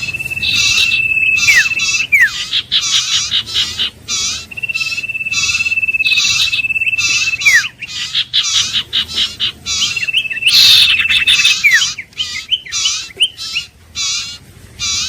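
Iora song: a long level whistle that ends in a quick falling note, given three times, over a fast, steady run of repeated chirps.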